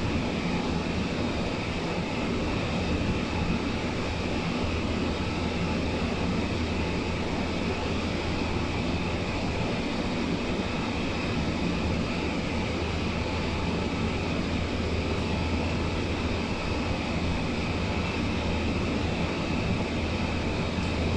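Steady running noise inside the cabin of the BART airport train (the cable-hauled Oakland Airport people mover) moving along its elevated guideway: a constant low hum under an even hiss.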